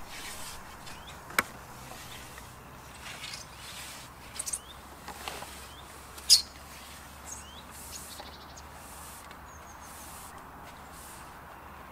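Wild birds chirping and calling in short scattered notes over a low steady background. There is a sharp click a little over a second in, and a louder, brief, sharp high sound about halfway through.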